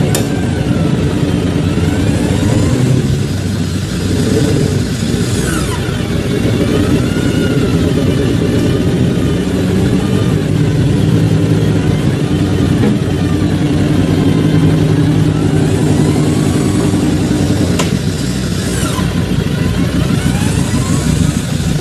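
Off-road 4x4's engine running under load, its note rising and falling as it is revved, with a thin wavering whine coming and going above it.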